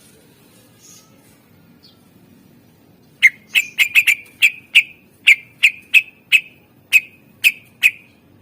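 Cucak ijo (leafbird) calling: a rapid series of about a dozen loud, sharp, whistled notes at roughly three a second, beginning about three seconds in.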